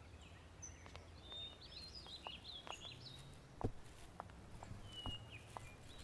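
Faint background ambience with small birds chirping in short twittering calls, over scattered light taps and clicks, the sharpest a single knock a little past halfway through.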